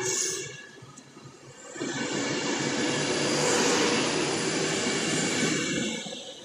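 Passenger train running through the station at speed right alongside: a loud, steady rush of wheels on rail and air, dipping briefly about a second in and again near the end.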